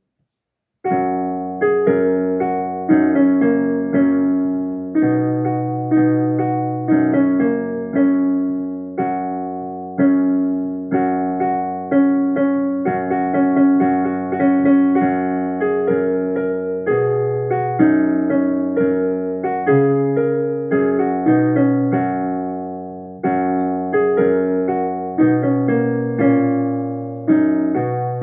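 Piano playing a short piece: a melody of struck notes over repeated bass notes, starting about a second in after silence.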